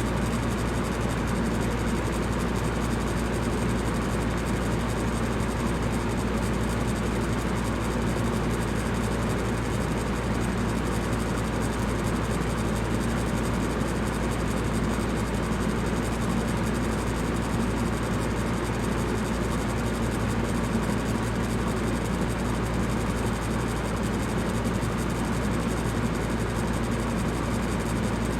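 Electric fan running steadily: a constant whooshing hum, strongest low down, with even hiss above and no change throughout.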